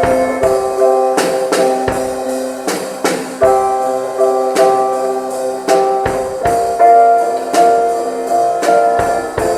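Instrumental rock band jam with no singing: guitars and piano sounding held chords, struck anew every second or so, over drums and cymbals.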